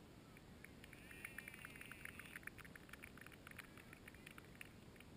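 A small bird's faint, rapid twittering chirps, busiest in the first half and thinning out near the end, over a faint steady hiss.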